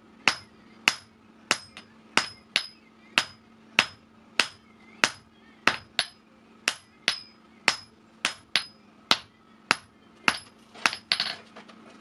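Hammer blows on hot axle steel over an anvil, about two a second with a bright metallic ring after each, some falling in quick pairs, as the axle is forged into a hammer head.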